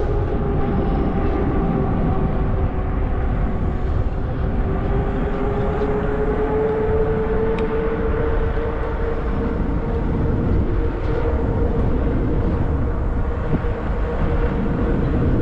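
Zota Zephyr fat-tire e-bike riding along: wind rushing over the microphone, and a steady whine from the bike in motion that dips and then rises a little in pitch midway.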